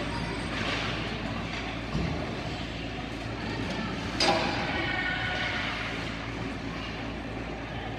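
Ice hockey arena ambience during play: a steady hum with faint distant voices. There is a low thump about two seconds in and a sharp crack just past four seconds, typical of a puck or stick hitting the boards.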